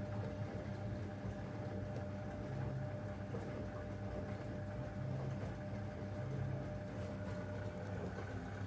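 Zanussi DL22 washing machine running a 90 °C boil wash: a steady low hum that swells every couple of seconds, with a faint steady whine that stops about seven seconds in.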